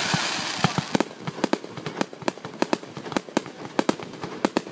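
Fireworks finale: a loud rush of noise fades over the first second, giving way to a rapid, irregular string of sharp bangs, several a second.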